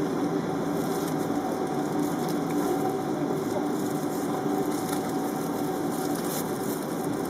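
Steady airliner cabin noise: a constant rush of air with a hum from the engines and ventilation, heard from inside the passenger cabin.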